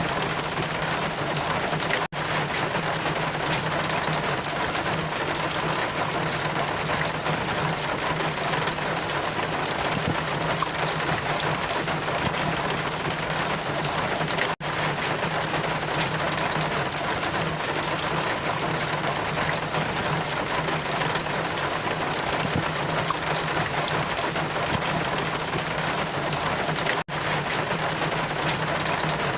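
Steady, heavy rain with a constant low rumble beneath it, cutting out for an instant three times, about every twelve seconds.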